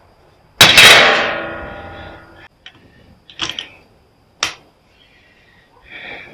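A loud metal clang that rings on and dies away over about two seconds, followed by a few lighter clanks and knocks: metal parts striking metal as a welder is being taken apart.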